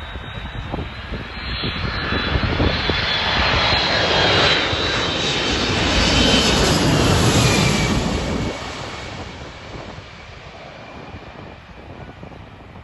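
Boeing 737 jet airliner passing close by. Its turbofan engine noise builds, is loudest around the middle, then drops off sharply about two-thirds through and fades. A high fan whine falls in pitch as it goes past.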